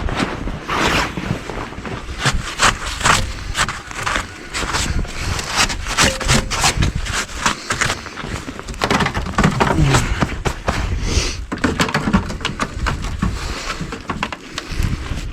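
Irregular clicks, knocks and scrapes of hand tools and metal parts being worked loose on the tractor's loader control, over a steady low rumble.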